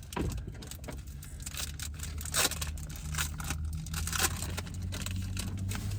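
Foil wrapper of a Pokémon trading card booster pack being torn open and crinkled by hand: an irregular run of crackles and tears, loudest twice near the middle, over a steady low hum.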